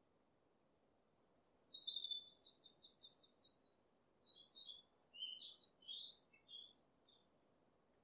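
A small songbird singing: a quick run of repeated high notes starting about a second in, then a varied string of chirps and whistles, over a faint background hiss.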